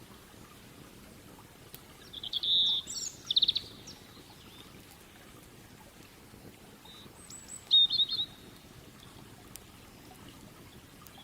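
A small songbird calling in two short bursts of high chirps and rapid trills, about two seconds in and again near eight seconds, over a faint low steady rush of the river.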